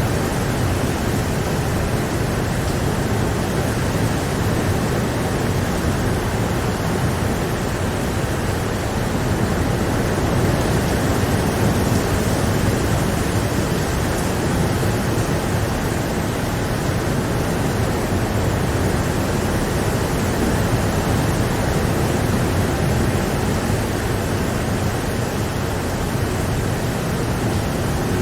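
Steady rain, an even rushing hiss that holds constant, with no single drops or thunder standing out.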